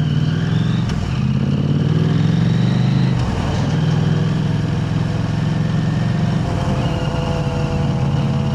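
KTM 890 Adventure R's parallel-twin engine running through an aftermarket Arrow Race-Tech exhaust while riding: the pitch rises under acceleration, drops sharply about three seconds in, then holds steady.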